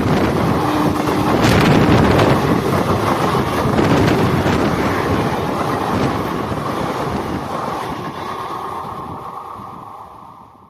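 A passing train's rumble and wheel noise on the track, with wind on the microphone. The noise fades steadily over the last few seconds as the train moves away.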